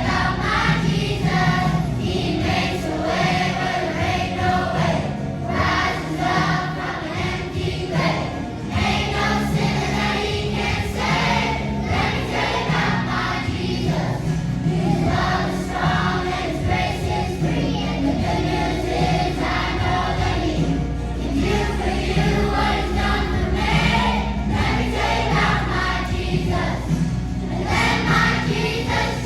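A choir singing a song together over instrumental accompaniment with a steady bass line.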